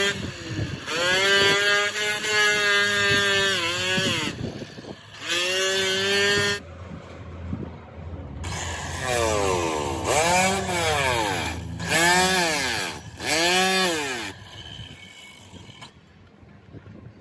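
A motor whining in bursts: held steady for a few seconds, then after a pause revved up and down three or four times in quick arches, and fading near the end.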